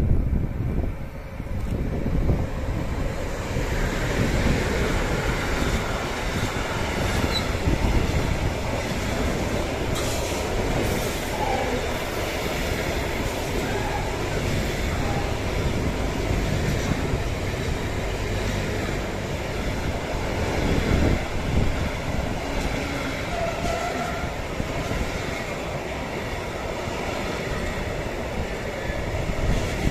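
Electric-hauled intermodal freight train passing close by, its long string of trailer and container wagons rolling past with a steady, loud rumble of wheels on rail. A few faint brief wheel squeals are mixed in.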